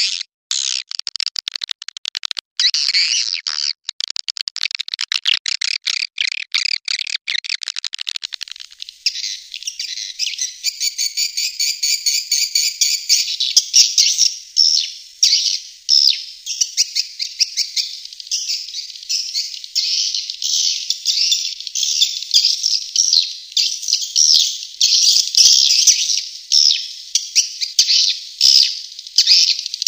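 Swiftlets twittering in a dense, rapid stream of high chirps, a recorded swiftlet call used as a lure to draw the birds into a swiftlet house. For the first several seconds it is fast clicking chirps, then it turns into thicker, continuous twittering.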